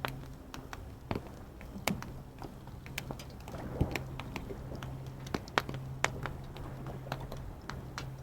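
Wood campfire crackling, with irregular sharp pops several times a second, over a low steady hum.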